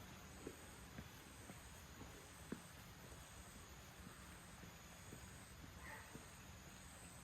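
Faint insect calls: a high, pulsing trill that repeats about once a second, with a few light clicks in the first couple of seconds.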